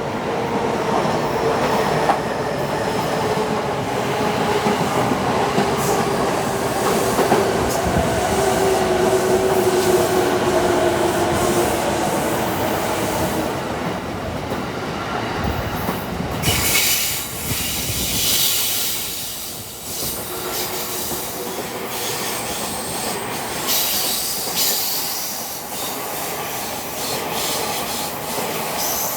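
A JR East E217-series electric multiple unit running along the station platform. Steady tones dip slightly lower in the first half. A little past halfway a loud hissing rush sets in and continues to the end.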